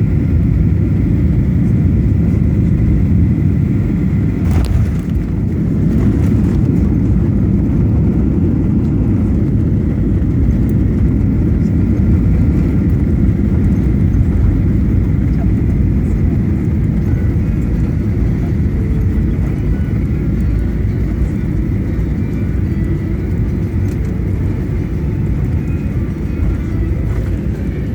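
Steady low rumble of an airliner's engines and airframe heard inside the passenger cabin, with a faint steady whine above it and a brief knock about four and a half seconds in.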